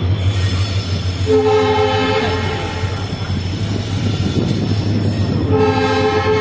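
Train horn sounding twice, each blast about a second long, over the steady rumble of the train rolling into a station.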